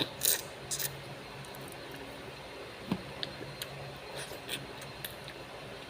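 Close-miked eating sounds: short bursts of wet chewing, with a single sharp knock about three seconds in.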